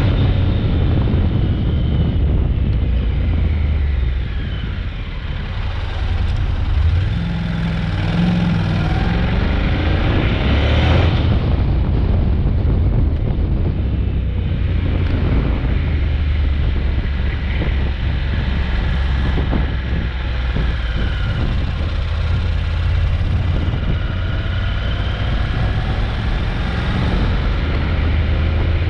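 Honda NC750X parallel-twin motorcycle engine running on the move, its pitch rising and falling as the bike speeds up and slows. Wind noise on the microphone runs underneath.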